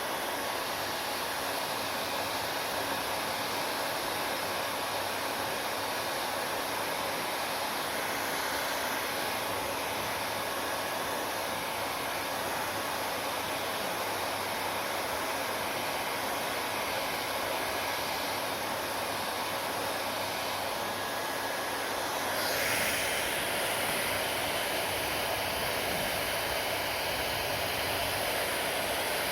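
Hair dryer running with a steady blowing hiss, briefly swelling louder about 22 seconds in.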